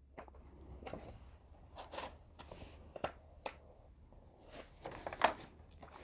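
Soft rustles and a handful of short clicks and taps from paper being handled, as a picture book's pages are turned. The loudest click comes about five seconds in.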